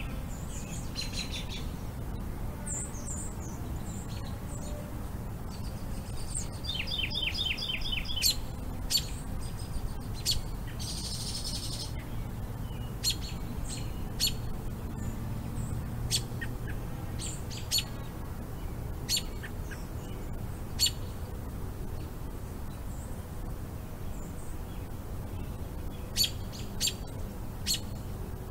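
Songbirds calling at dusk: a fast high trill about seven seconds in, then sharp single chip notes every second or so, bunched together near the end, over a steady low rumble.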